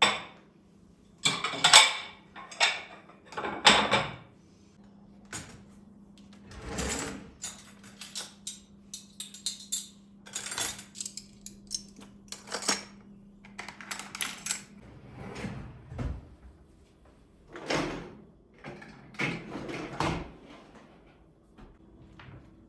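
Household objects being handled: a run of clatters, knocks and short scraping or rustling strokes, irregular and with pauses, over a faint steady hum.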